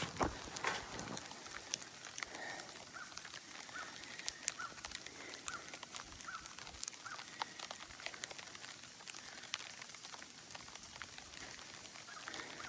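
Footsteps crunching in snow at a walking pace of about two steps a second, with scattered light ticks.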